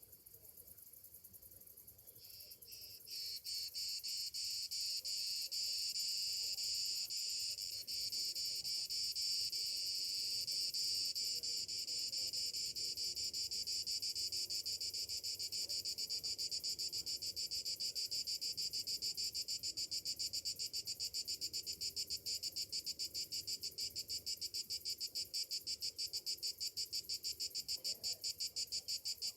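Cicadas singing: a high, rapidly pulsing buzz that starts about two seconds in, swells within a second and then holds steady.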